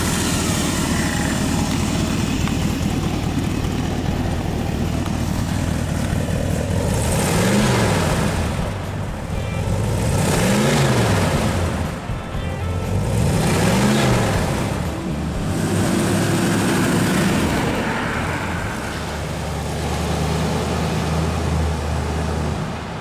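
Ford small-block V8 idling, then revved three times, its pitch rising and falling each time, about seven and a half, eleven and fourteen seconds in. Near the end the engine pulls the car away at low speed.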